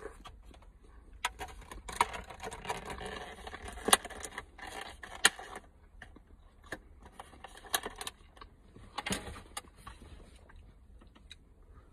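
Close-up chewing and mouth noises of a man eating a chocolate-filled doughnut, with scattered sharp clicks and a stretch of dense rustling about two to five seconds in.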